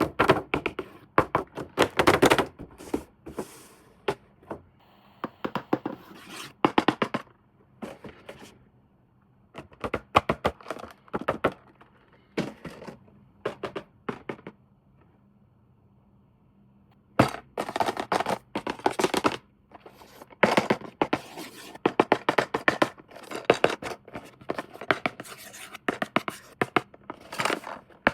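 Hands unboxing and handling toy packaging: irregular bursts of scraping, tapping, clicking and rustling from cardboard and plastic, with a lull of a few seconds about halfway through.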